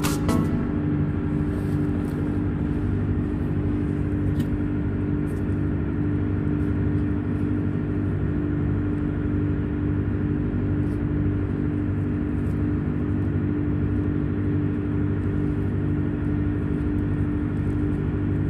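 Steady low drone of a ship's running machinery, an even hum with a few fixed low tones that does not change.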